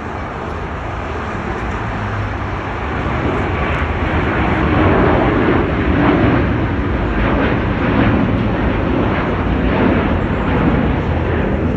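Jet airliner passing close by, its engine noise building over the first five seconds or so and then holding steady and loud.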